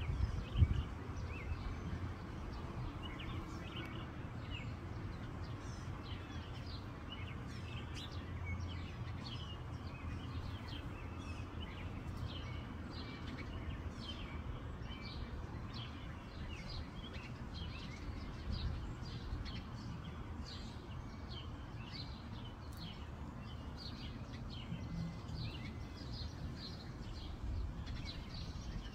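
Birds chirping: many short, high notes in quick succession, growing busier partway through, over a steady low rumble. A single thump sounds just after the start.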